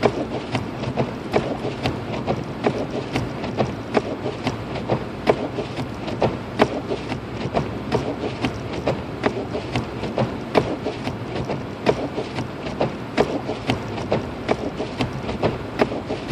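Inside a Lexus IS250 AWD driving on a snow-covered road: a steady road rumble with irregular sharp clicks and knocks, about two or three a second.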